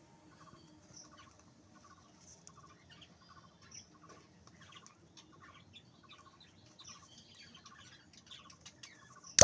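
Birds chirping, a steady run of short high chirps and ticks, with one sharp loud click near the end.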